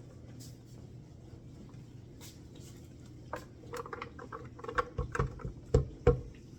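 Kitchen handling noise: a plastic container of carrots kept in water being handled, with a run of clicks and knocks starting about three seconds in and several heavier thumps near the end.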